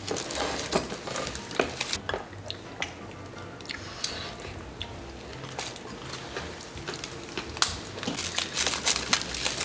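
Close-up eating of soy-sauce-marinated raw crab: wet smacking, sucking and crunching as the soft shells are bitten and chewed. A string of small clicks and crackles thins out in the middle and gets busier near the end.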